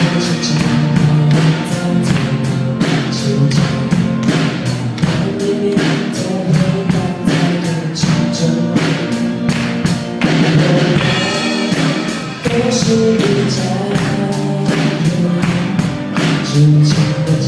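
A band's instrumental song introduction: sustained chords over a steady, evenly spaced drum beat.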